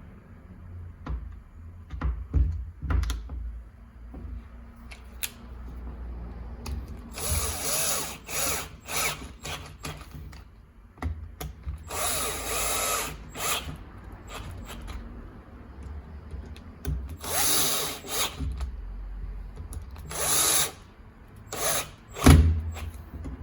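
Bosch GSB 13 RE hammer drill run in four short bursts of a second or two each, with clicks and knocks of handling between the runs and a heavy thump near the end.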